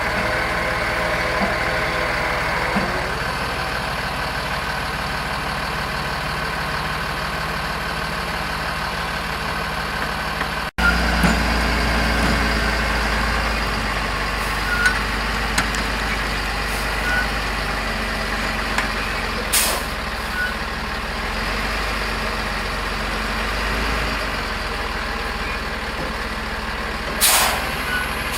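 Heavy truck engine idling steadily, with a cut about eleven seconds in to a deeper rumble. Two short bursts of noise come near the 20-second mark and near the end.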